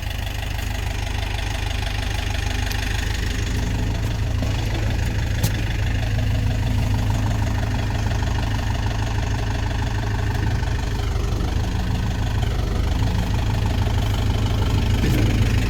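Tractor engine running steadily at a low, even speed, with a single sharp click about five seconds in.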